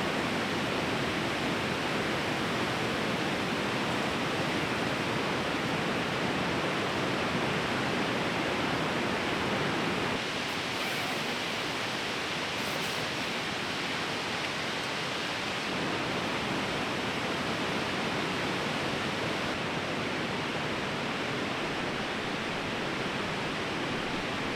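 Steady rushing of a fast-flowing river, a constant even noise of water.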